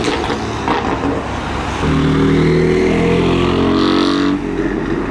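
Car engines driving past at low speed. About two seconds in one engine gets louder and its pitch climbs slightly as it accelerates, then it lets off shortly before the end.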